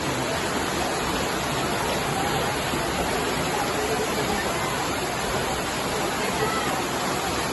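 Steady, even rushing noise of rainwater.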